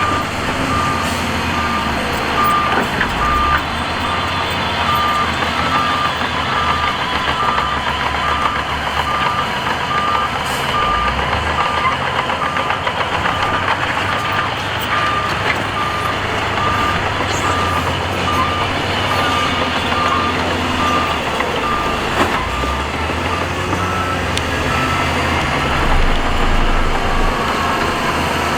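Heavy construction machine's backup alarm beeping at a steady, even pace over the loud, continuous running of diesel engines. The beep shifts slightly higher in pitch after about twenty seconds.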